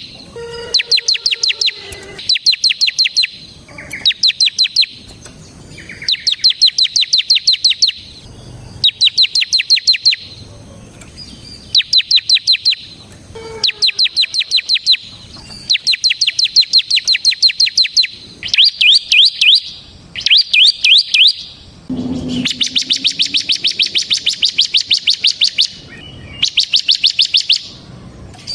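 Ciblek (bar-winged prinia) singing in rapid bursts: phrases of fast, evenly repeated high chirping notes, each a second or two long, coming one after another with short pauses between them. This is the sustained 'ngebren' song that keepers play as a lure and tutor for other songbirds.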